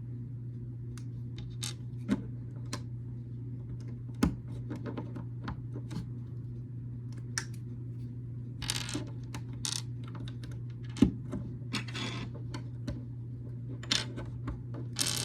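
Small plastic building bricks clicking and clattering as loose pieces are handled and snapped together, in irregular sharp clicks with a few short rustles, over a steady low hum.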